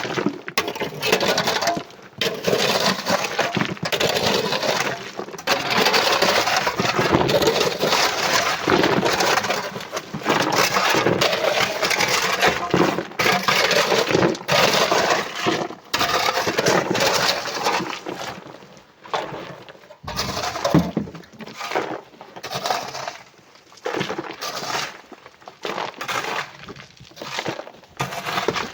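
Loose rock and coral clattering and crashing as it is loaded, a dense run of many small impacts that breaks into separate crashes about a second apart in the last third.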